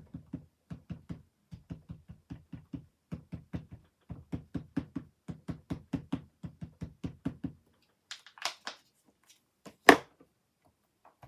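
Quick, even tapping, about four taps a second, of an ink pad dabbed onto a rubber stamp, stopping a little after halfway. Then a short rustle and one sharp, loud knock near the end.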